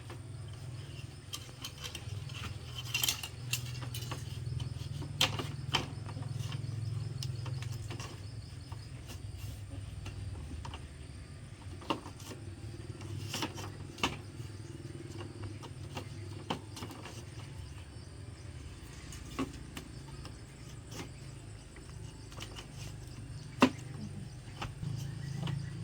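Bamboo being worked by hand: irregular sharp knocks and clicks, a second to several seconds apart, the loudest near the end, over a steady low hum.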